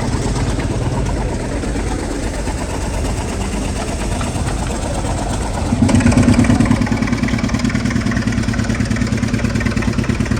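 An old air compressor's engine running steadily. About six seconds in, the sound gets louder and settles into an even pulsing beat, about four beats a second.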